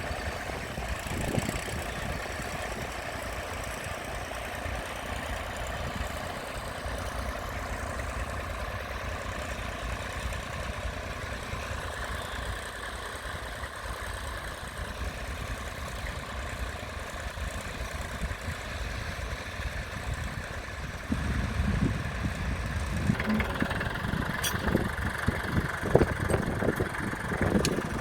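Tractor engine running steadily, growing louder about three quarters of the way through.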